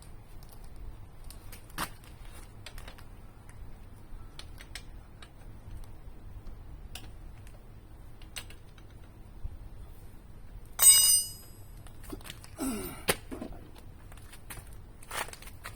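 Scattered light clicks and clatter of metal tools and parts being handled. About eleven seconds in comes one loud ringing metallic clink, followed by a short scrape and a sharp knock.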